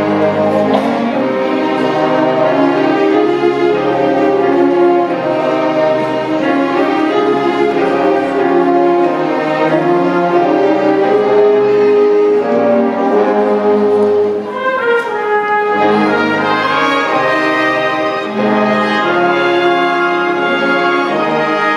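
Orchestra playing a Christmas arrangement, with the brass section prominent in sustained chords and melody.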